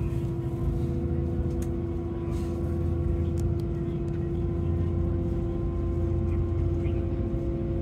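Cabin noise of a diesel railcar running slowly: a steady low rumble with a constant droning hum and a few faint clicks.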